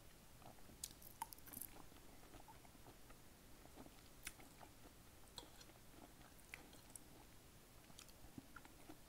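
Close-miked chewing and wet mouth sounds from eating sautéed collard greens, faint, with many small sharp clicks scattered through and a brief cluster of louder ones about a second in.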